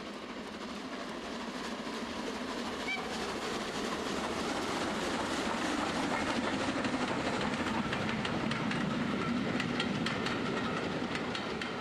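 A train running on rails, with a dense, steady rumble that builds in loudness over the first few seconds and eases slightly near the end.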